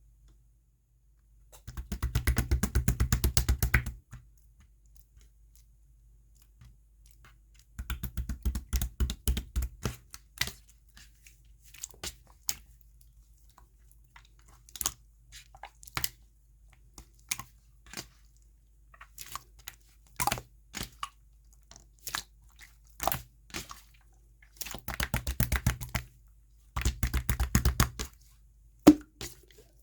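Clear purple jelly slime being squeezed and pressed by hand, giving runs of rapid crackling clicks and pops four times, with single pops in between.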